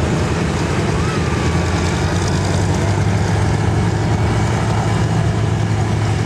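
Blériot XI's 50-horsepower rotary engine running steadily on the ground as the brakeless monoplane is caught and held by hand.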